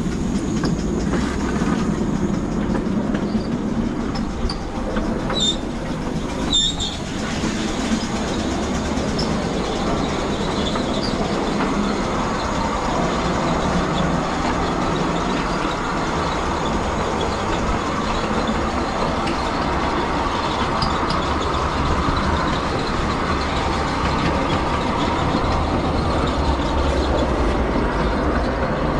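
Miniature railway train running on its track: a steady rumble of wheels on rail, with two sharp clicks about five and a half and six and a half seconds in.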